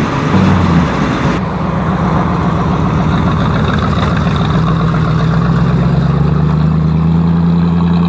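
Motor vehicle engine idling steadily, a low even hum that settles slightly lower in pitch past the middle.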